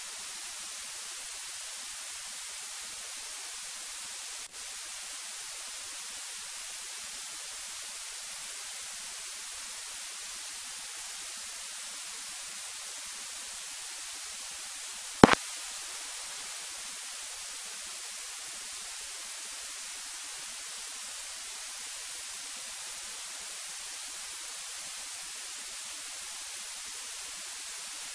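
Steady hiss of static on an electronic audio line, with a brief dropout about four and a half seconds in and a single sharp click about fifteen seconds in.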